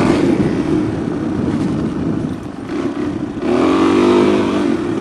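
Engine of a 400 off-road bike bored out to 434 cc, running under way. It revs up louder about three and a half seconds in, then eases off.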